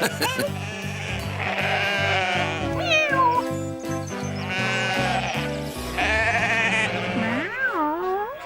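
Bouncy cartoon background music with a stepped bass line, with sheep bleating over it: one wavering bleat a few seconds in and another near the end.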